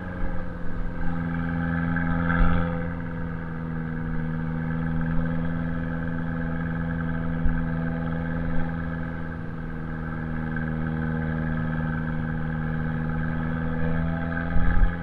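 Abarth 595C's turbocharged 1.4-litre four-cylinder running through an Akrapovic exhaust at a steady, moderate engine speed while driving, holding a fairly even pitch. A few short knocks come through, the loudest about two and a half seconds in and just before the end.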